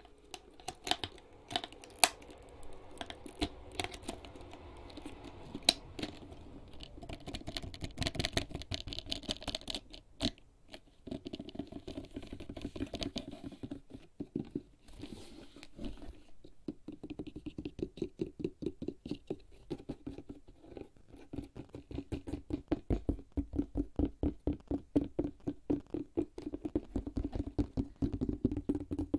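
Fingertips tapping and scratching on a HERZ leather bag. In the first half the taps are irregular and mixed with scratching. From about halfway the tapping turns quick and steady, at roughly six taps a second.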